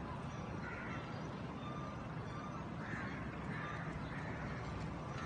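Short bird calls over steady low background noise: one about a second in, then three in quick succession from about three seconds in.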